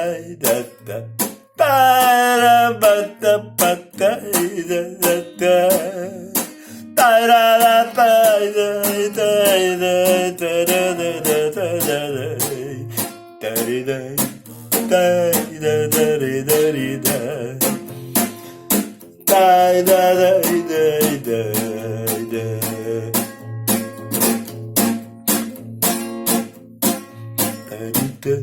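Instrumental break of a Gypsy song: acoustic guitar strummed in a steady rhythm, with a wavering melody line rising over it three times.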